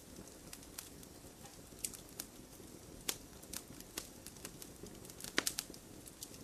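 Campfire crackling: a soft steady hiss with scattered sharp pops of burning wood, a brief cluster of louder pops about five seconds in.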